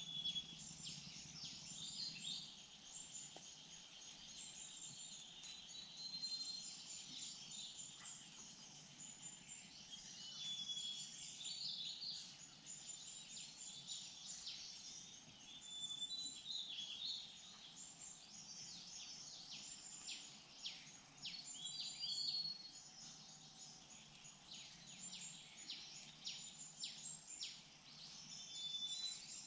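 Many small birds chirping and calling together: a busy mix of quick high chirps and short whistles over a faint steady insect buzz.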